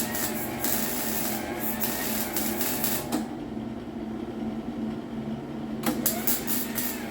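Arc welding on a car's steel quarter panel: a steady buzzing crackle that stops about three seconds in and starts again about three seconds later, over a steady low hum.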